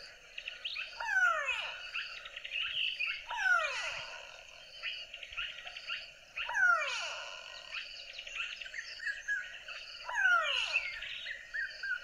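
Recording of a grey go-away-bird calling: four loud calls, each falling steeply in pitch, about three seconds apart, the call heard as "go away, go away". Steady chirping goes on in the background.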